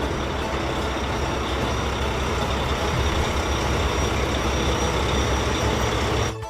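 Heavy vehicle engine, such as a truck's, running steadily with a deep low hum, then cutting off abruptly at the end.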